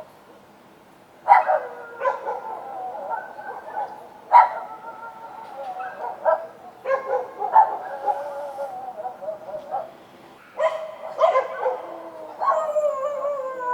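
Street dogs barking at night: sharp barks every second or two, starting about a second in. Long, wavering howls slide downward between the barks, with a drawn-out falling howl near the end.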